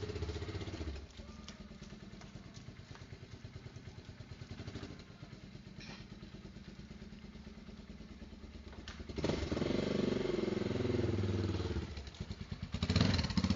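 Motorcycle engine idling with an even, pulsing beat. About nine seconds in it is revved hard, rising and falling for a few seconds, then drops back briefly and is revved again near the end.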